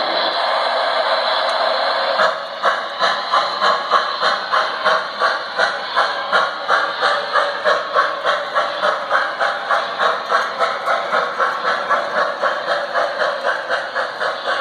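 Model train running on the layout track: a steady running noise, then, about two seconds in, a regular clicking of about three a second that keeps on.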